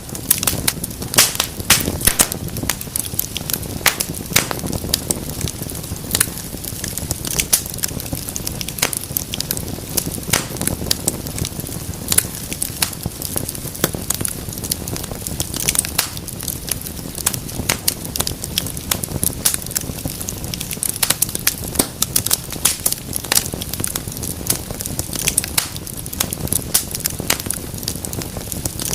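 Wood fire burning in a fireplace, with frequent sharp crackles and pops over a steady low rumble of the flames.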